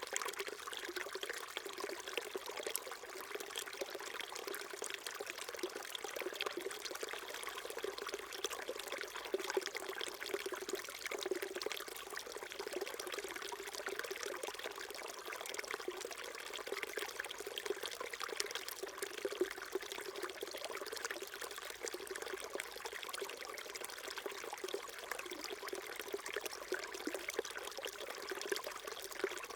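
Small mountain stream flowing and trickling over rocks, a steady babbling with fine splashes.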